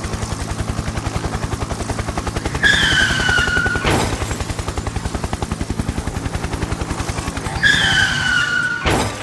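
Cartoon vehicle engine sound effect: a rapid, steady chugging rattle of about a dozen beats a second. Twice it is topped by a falling tyre-skid squeal that ends in a sharp bang.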